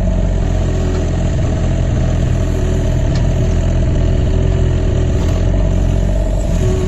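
Excavator's diesel engine running steadily under working load as it digs the side slope of a ditch.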